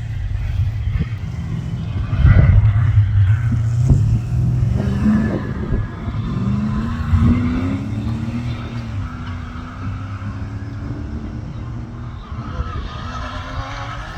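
Off-road competition safari vehicle's engine running hard with a heavy rumble, loudest about two seconds in, then revving up with a steadily rising pitch a few seconds later.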